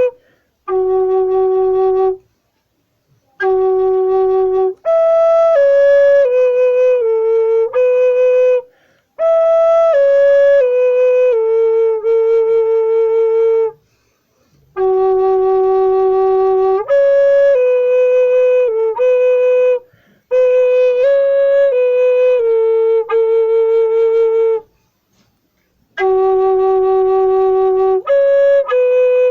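A solo flute plays a slow, simple melody one note at a time. It moves in phrases of a few held and stepping notes, with short breaths between them, and the phrases come back more than once.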